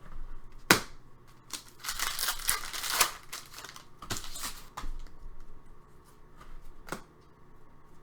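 Trading card packaging and cards being handled: a sharp click, then a second or so of crinkling and tearing, followed by scattered light clicks as cards are sorted.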